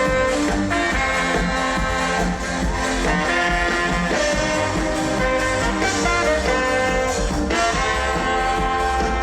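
Live band music in a Ghanaian Frafra gospel highlife style, with a steady groove and instruments playing throughout.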